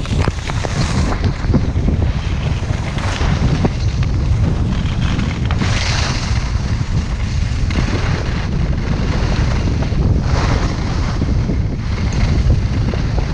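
Heavy wind buffeting the microphone as a skier descends, with repeated swells of skis hissing and scraping across hard snow as he turns.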